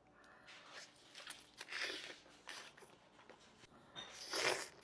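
Juicy orange being eaten close to the microphone: a run of wet bites, squishing and chewing, with the loudest, juiciest bite near the end.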